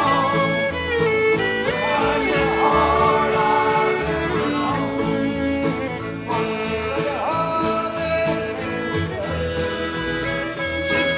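Live music from a small gospel group performing a country-style song, with a melody line gliding over steady accompaniment.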